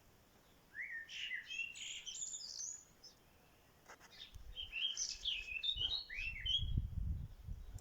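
Small birds chirping and twittering in two lively bursts, the first about a second in and the second from about four seconds in. A low rumble runs under the second burst near the end.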